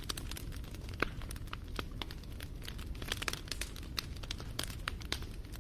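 Campfire crackling: a dense run of small sharp pops and snaps from the burning wood over a steady low rumble, with one louder snap about a second in.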